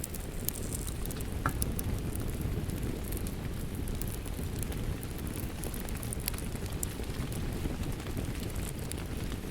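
Steady rain with a crackling wood fire: a continuous low rush of rain, with scattered sharp crackles and pops from the fire throughout.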